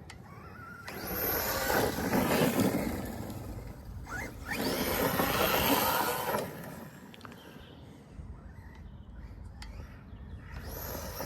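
Arrma Kraton 4S electric RC monster truck being driven hard, its brushless motor and tyres heard in two loud passes followed by a quieter stretch, then building again near the end.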